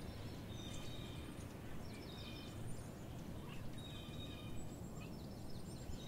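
A bird calling faintly, short calls of a few high stacked notes repeated about every one and a half to two seconds, over a steady low background hiss.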